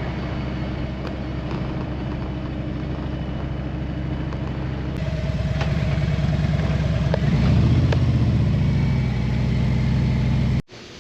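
Motorcycle engine running steadily, growing louder about halfway through and louder again a couple of seconds later, then cutting off abruptly near the end.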